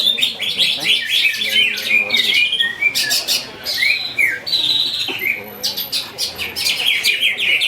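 Several caged greater green leafbirds (cucak ijo) singing at once in contest: a loud, dense chorus of fast chirps, trills and whistles that barely pauses, with a low murmur of people beneath.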